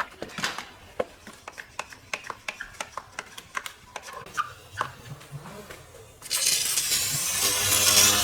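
Light, irregular clicks and knocks of hands or tools working. About six seconds in, a loud steady hiss of air or spray starts, and a motor hum joins it.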